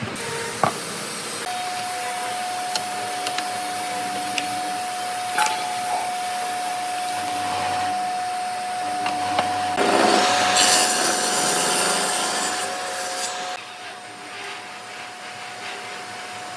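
Electric power tool running against wood: a steady motor whine under a hissing cutting or sanding noise. The noise grows loudest a little past the middle and then eases off near the end while the motor keeps running.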